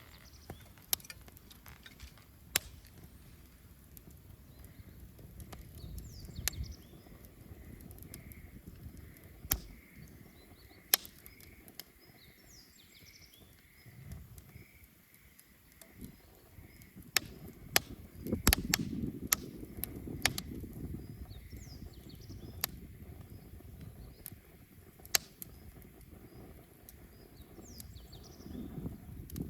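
Wood bonfire crackling, with sharp pops at irregular intervals over a low rush of burning that swells about two-thirds of the way through.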